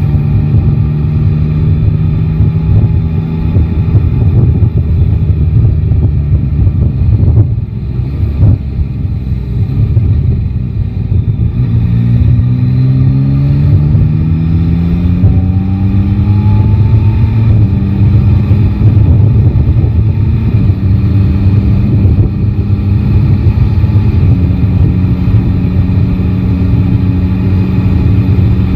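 Yamaha Tracer 9 GT motorcycle's three-cylinder engine running while riding in traffic. Its note drops briefly, then rises steadily under acceleration about halfway through, stepping to a steadier pitch twice as gears are changed.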